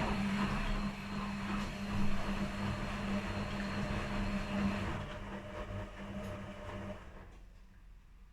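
Washing machine partway through a quick wash cycle: water rushing inside the machine with a steady motor or pump hum, which stops about seven seconds in.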